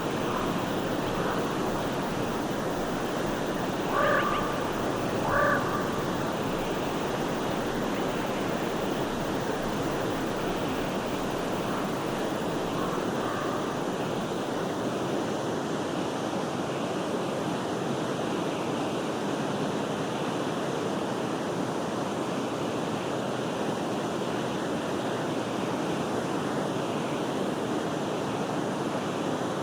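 Steady rushing of a forest stream, with two short calls from a bird about four and five and a half seconds in.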